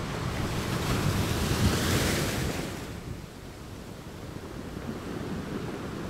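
Ocean surf: a wave rolls in and breaks, loudest about two seconds in, then its wash ebbs to a steady lower rush of sea.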